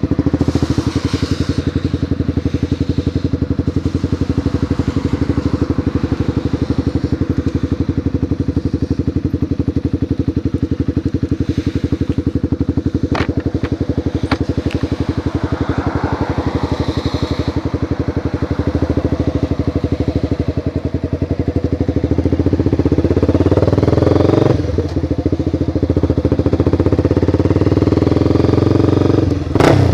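Honda CBR sport motorcycle engine running with a steady, even pulse, like idling or low-speed cruising. About two-thirds through it gets louder and its pitch rises as the bike accelerates, with short breaks as it shifts gear.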